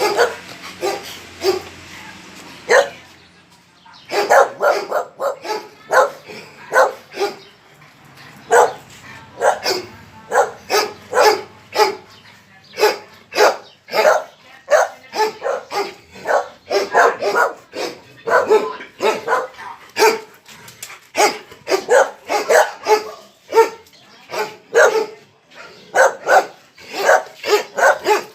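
Dog barking over and over, about two barks a second, with a short pause about three seconds in.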